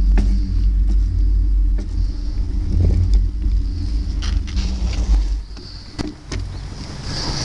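Steady low rumble and road noise of a moving bike. The rumble eases about five and a half seconds in, and several sharp clicks and knocks cut through it.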